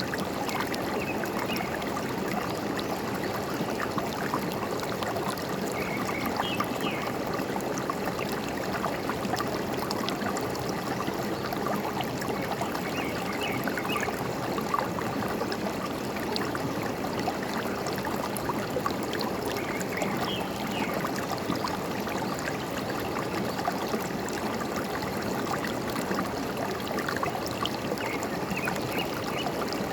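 Forest stream running steadily with a constant gurgling rush. Short, high bird chirps come in small clusters about every seven seconds.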